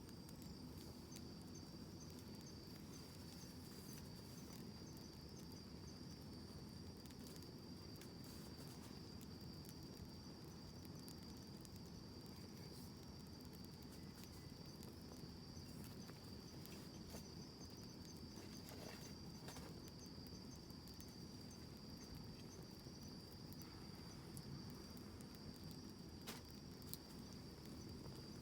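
Wood fire burning with scattered small crackles and pops, over a continuous high, steady insect trill like crickets.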